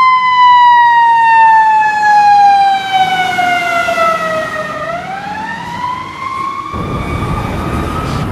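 Fire truck siren wailing: one tone falls slowly for about five seconds, then rises again. A low rumble of engine and road noise comes in abruptly near the end.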